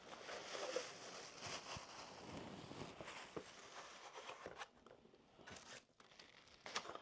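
Takeout food packaging being unpacked and handled: the bag and containers rustling and crinkling with scattered small crackles and taps, busier in the first few seconds and sparser later.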